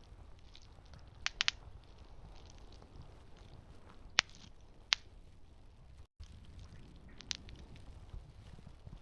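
Campfire burning with a low rumble and sharp crackling pops: a quick cluster of three about a second in, loud single pops about four and five seconds in, and another near seven seconds. The sound cuts out for an instant about six seconds in.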